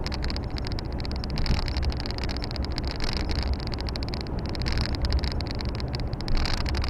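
Volvo FH 460 truck driving along, its diesel engine and road noise heard from inside the cab as a steady low drone.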